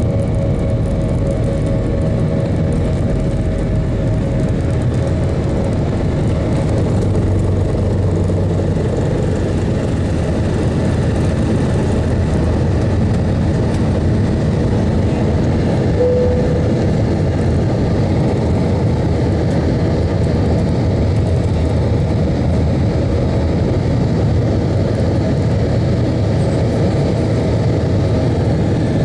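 Airbus A320-232 with IAE V2500 engines, heard from inside the cabin: a loud, steady rumble of engine noise and airframe or wheel noise, with no pauses.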